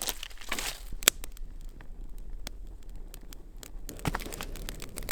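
Campfire crackling with sparse, irregular sharp pops, one louder pop about a second in, and a short rustle near the start.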